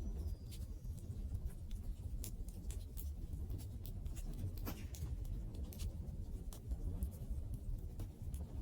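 Wood fire burning with a steady low rumble of flames and frequent irregular crackles, with a few louder pops from the burning wood.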